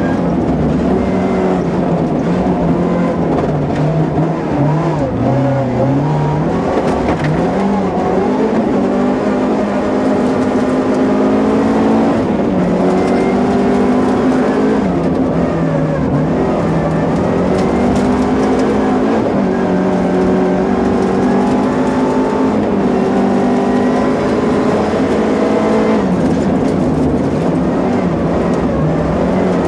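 Opel Kadett GSi 16V's two-litre 16-valve four-cylinder engine heard from inside the cabin at full rally pace. The revs climb and drop again several times through the gears and bends, over a constant rush of road noise.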